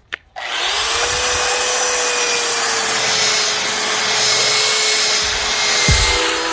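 Electric sander switched on with a click, its motor spinning up with a rising whine and then running steadily at full speed while sanding a wooden tabletop with 80-grit paper.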